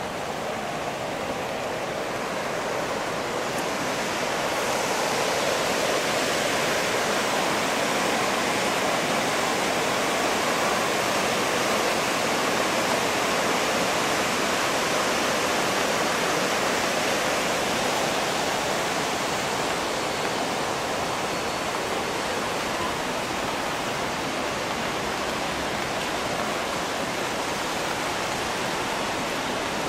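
Steady rain falling, an even rushing hiss that swells a few seconds in and eases slightly later on.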